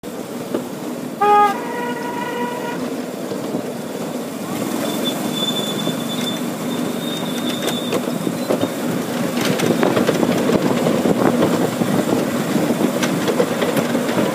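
Miniature railway train running, heard from on board: a steady rumble and clatter of small wheels over the track that grows louder as it goes. A short pitched toot comes about a second in, and a thin high squeal in the middle.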